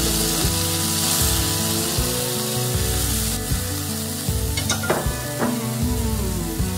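Chopped button mushrooms sizzling in hot olive oil and butter in a nonstick kadhai, stirred with a silicone spatula. The frying hiss is steady, with a few sharper scrapes of the spatula about five seconds in. Background music plays underneath.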